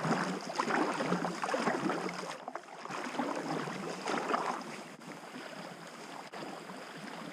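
River water splashing and lapping around an inflatable packraft floating downstream.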